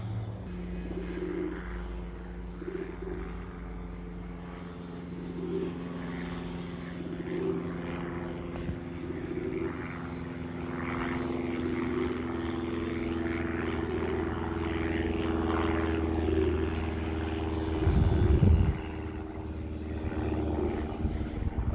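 Steady engine drone, like an aircraft passing, growing louder toward the middle, with short low pigeon coos repeating every second or two. A brief loud low rumble comes near the end.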